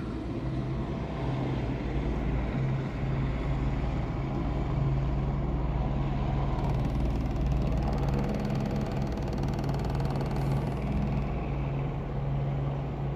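Helicopter flying low and close overhead, its engine and rotor making a steady, loud drone.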